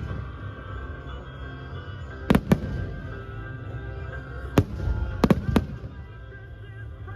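Fireworks shells bursting in the sky, with sharp bangs: two close together about two seconds in, one more a couple of seconds later, then a quick run of three. Steady music plays underneath.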